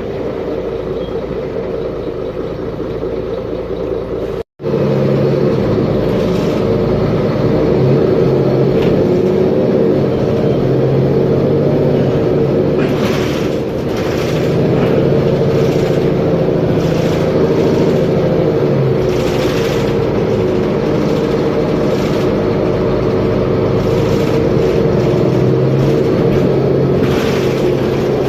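Mercedes-Benz Conecto G bus's OM457LA inline-six diesel engine running under way with a steady drone, cut out by a brief gap in the recording about four and a half seconds in. Several short rushing noises come in over it in the second half.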